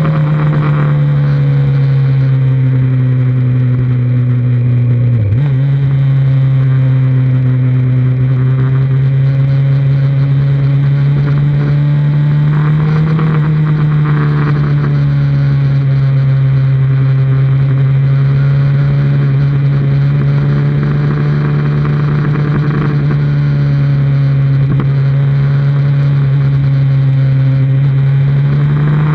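2003 Kawasaki Z1000's inline-four engine running under way, heard from on board the motorcycle. Its note holds fairly steady with slow rises and falls in pitch, and dips sharply for a moment about five seconds in.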